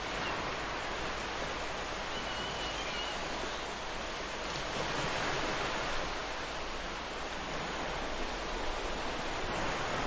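Ocean surf washing steadily onto a beach, a continuous rushing wash that swells a little about halfway through.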